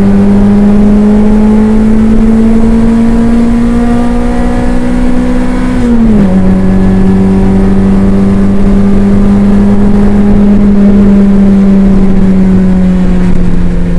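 Toyota MR2 race car engine heard from inside the cabin, running hard and climbing slowly in pitch, then dropping sharply about six seconds in and holding steady at the lower pitch.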